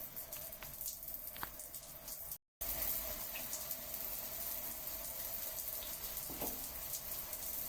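Water running steadily. It cuts out for a moment about two and a half seconds in, then carries on a little louder.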